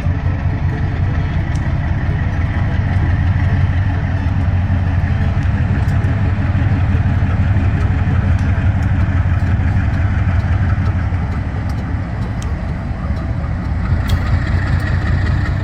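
Diesel engine of a GE U23B locomotive running steadily with a strong, low-pitched sound; a few faint clicks are scattered through it.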